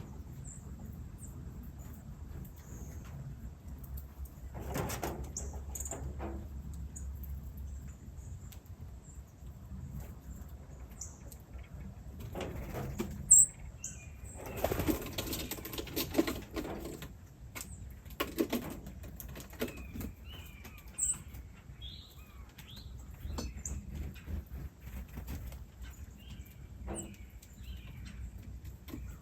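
Small birds chirping in short, high peeps, with several bursts of wing flapping, the longest about halfway through.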